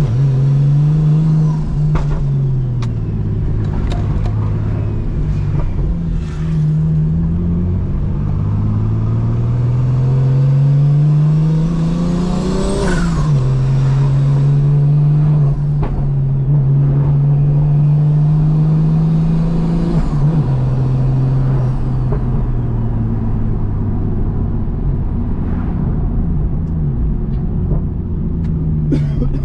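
Single-turbo BMW M2 Competition's inline-six, on a straight-through titanium exhaust, driven through the gears of its manual box: engine pitch climbs steadily, then drops sharply on an upshift about halfway through, with a short sharp sound at the shift. It drops again about two-thirds of the way in and then holds a steady cruise.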